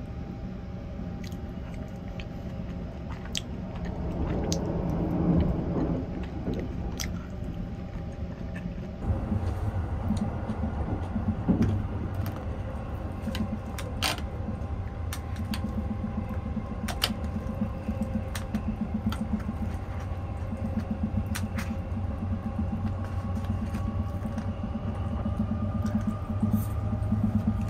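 Sunrise Seto sleeper train running: a steady low rumble inside the compartment, with a soft pulsing hum through the second half. Now and then chopsticks click against a plastic food tray.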